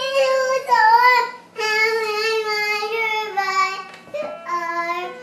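A young child singing in a high voice, holding long notes over several short phrases, with brief breaks about a second and a half in and again about four seconds in.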